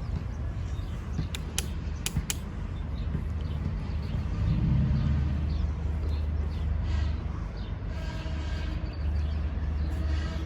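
Low, steady rumble of a Long Island Rail Road diesel train, swelling about halfway through, with faint higher tones joining in the second half.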